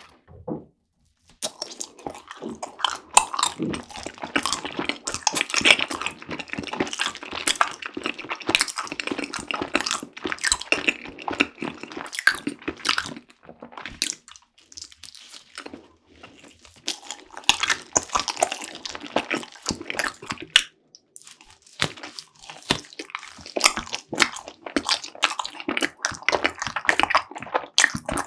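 Close-miked biting and chewing of a strawberry mochi, soft rice cake and fresh strawberry, giving dense irregular clicks and smacking mouth sounds with a few brief pauses.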